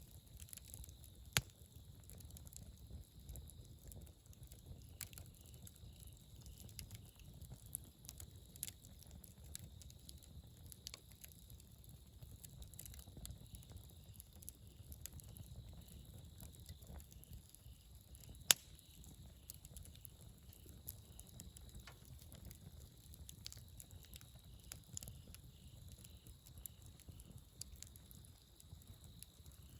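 Wood campfire crackling: scattered small pops and ticks over a low steady rumble, with a sharp pop about a second in and a louder one a little past halfway.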